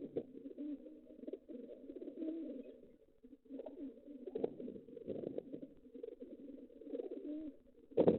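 Pigeons cooing continuously, their low warbling calls overlapping, with a louder call about four and a half seconds in.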